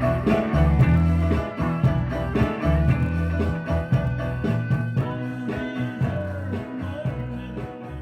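Instrumental passage of a live bar-band blues-rock groove: electric guitar, bass and drums, with no singing. The music fades out through the second half.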